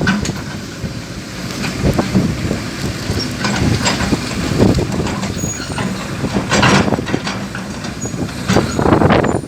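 Dump truck unloading coal: its engine runs steadily under loud, irregular clattering and rumbling, heaviest near the start and in the last few seconds.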